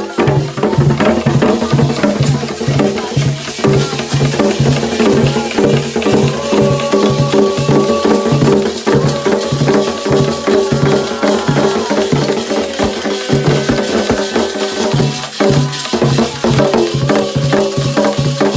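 Candomblé ritual drumming: hand drums play a steady repeating beat, with sharp clicking strokes like a bell or wood block over it.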